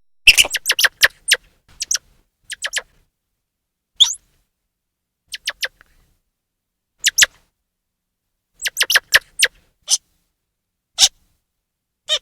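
Grey squirrel chirping calls: short, sharp chirps in quick runs and scattered pairs, with a fast run in the first second and a half, another about nine seconds in, and single chirps near the end, separated by dead silence.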